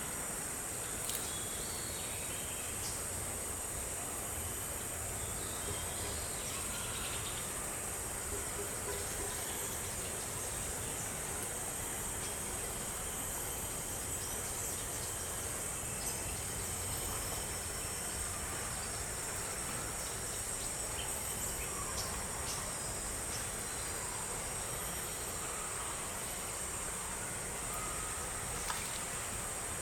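Steady high-pitched drone of a tropical insect chorus, continuous and unchanging, over a low background hiss, with a few faint clicks.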